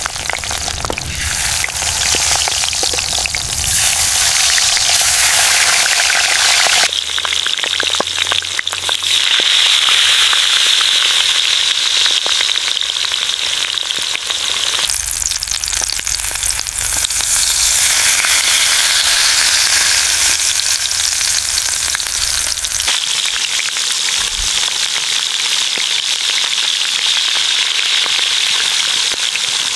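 Food sizzling and crackling as it fries in a hot pan, a steady hiss that changes character abruptly about 7, 15 and 23 seconds in.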